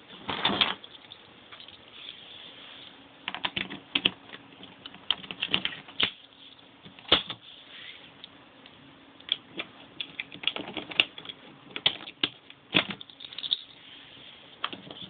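Irregular sharp clicks and knocks, a dozen or so at uneven intervals, the loudest cluster right at the start, over a faint steady hum that sets in about three seconds in and fades near the end.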